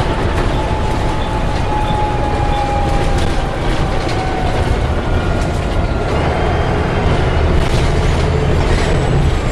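Volvo B7TL double-decker bus under way, heard from inside: steady engine and road rumble with a howling whine that slides slowly down in pitch over a couple of seconds, then higher whining tones that rise about six seconds in.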